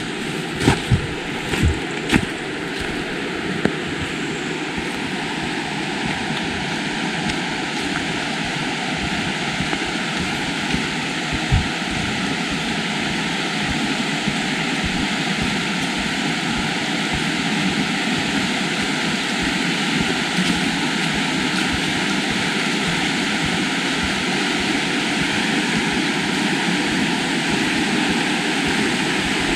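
River water rushing steadily, slowly growing louder, with a few short knocks in the first few seconds and one more about eleven seconds in.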